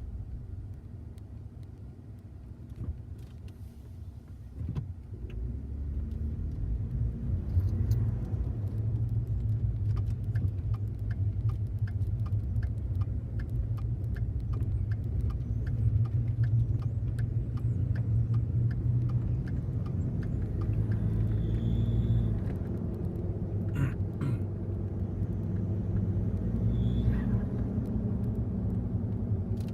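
2014 Ford F-150's 3.5L EcoBoost twin-turbo V6 running, the sound growing louder about five seconds in. Over it, a faint short chirp repeats a bit more than once a second, a noise the owner traces to the passenger-side turbo.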